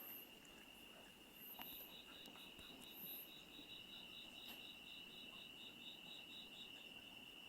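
Faint insect chorus: a steady high trill runs on while a second insect chirps in a quick, even pulse, about five chirps a second, from about a second and a half in until near the end.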